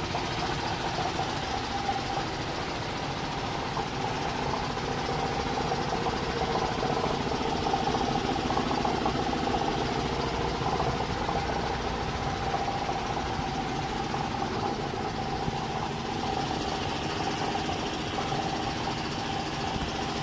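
An engine idling steadily, a constant hum that holds the same pitch throughout.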